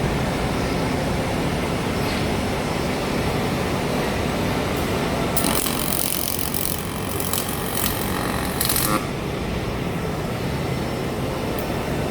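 A steady low machine hum, with several seconds of intermittent high-pitched hissing from about five to nine seconds in.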